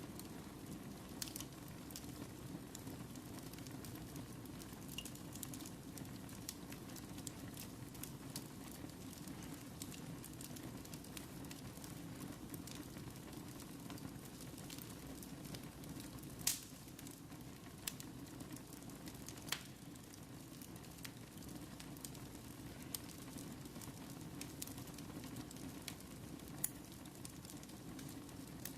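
Wood fire burning in a fireplace: a steady low rush with scattered sharp crackles and pops, the loudest a little over halfway through.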